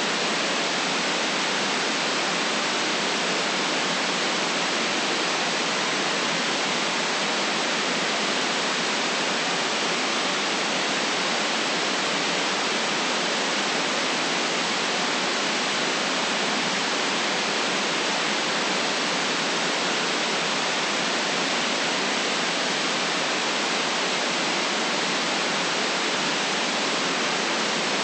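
Steady white noise: an even, unchanging hiss with no low rumble and no other sounds.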